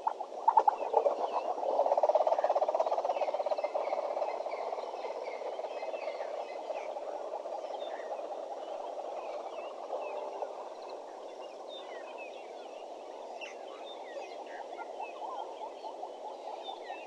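A dense chorus of rapid, pulsed animal calls, loudest about two seconds in and then steadier, with small birds chirping faintly above it.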